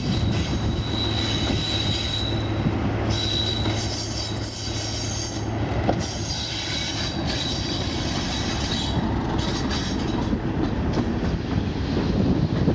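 Train running on the line with a steady rumble, its wheels squealing against the rails in several high-pitched spells.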